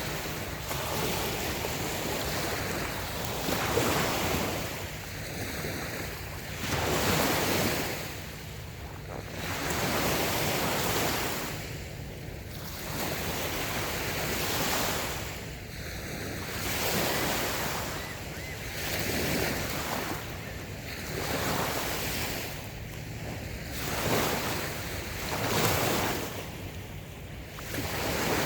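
Small waves breaking and washing onto the shore, one swell of surf about every three seconds.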